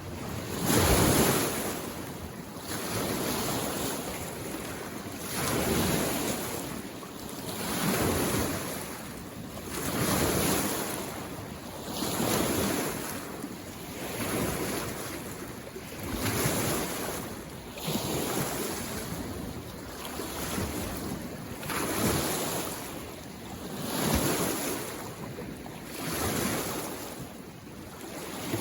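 Small waves on a mountain lake washing in against the shore, one swell about every two seconds.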